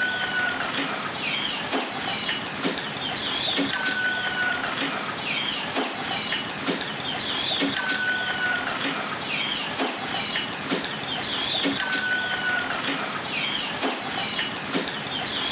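A bird repeating the same short song about every four seconds, a held whistle followed by quick chirps, over soft knocks about once a second.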